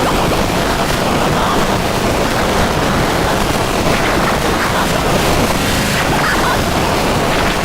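Eurorack modular synthesizers playing a dense, steady wall of noise with no clear beat or pitch.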